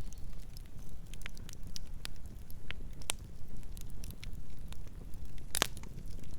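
Campfire burning with a low steady rumble and scattered sharp crackles and pops; one louder pop comes near the end.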